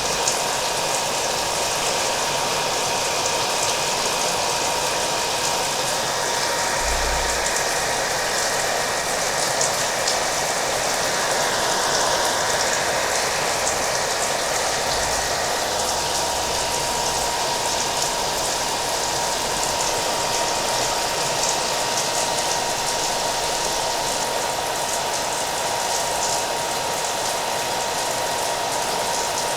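Hair dryer running steadily, its motor giving a thin constant whine over the blowing air, mixed with a steady patter of rain.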